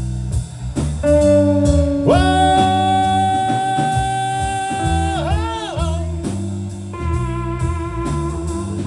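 Live blues band playing a repeating guitar and bass riff over drums, with a long held note that steps up about two seconds in, then wavers and bends down about five seconds in.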